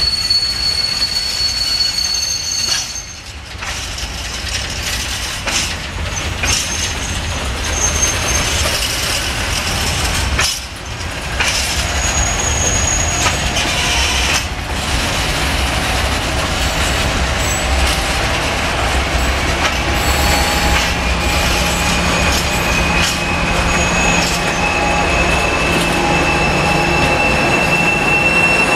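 A freight train of open wagons rolling on jointed track, with wheel flanges squealing in thin high tones and wheels knocking over rail joints. From about halfway through, a diesel-electric locomotive's engine hum comes in and grows louder as it draws near, with a long squeal rising slowly in pitch.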